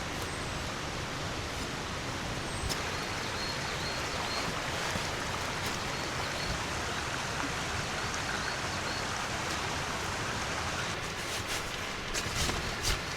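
Rushing river water, a steady, even rush with no let-up. A few faint knocks come near the end.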